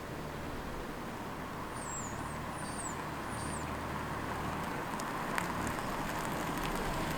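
Hyundai Tucson running with a steady low hum. Three short high chirps come about two to three and a half seconds in, and a single click about five seconds in.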